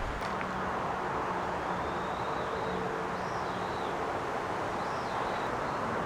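Small birds giving faint short chirps a few times over a steady rushing background noise, with a couple of light clicks at the very start.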